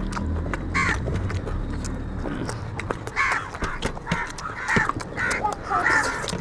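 Eating sounds: wet chewing and mouth smacking with frequent small clicks of hands working rice and curry, and several short harsh bursts in the second half.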